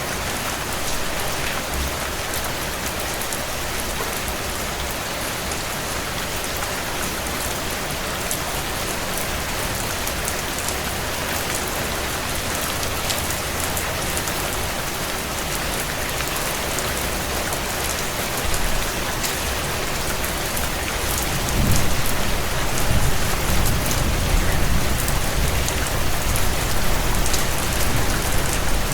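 Heavy rain drumming on a tin roof: a steady dense hiss with many sharp individual drop strikes. Past the middle a low, uneven rumble comes in and makes it louder.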